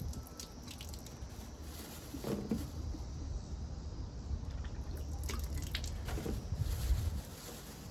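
Water dripping and trickling as potatoes are rinsed and handled, with a few soft knocks as they are set down.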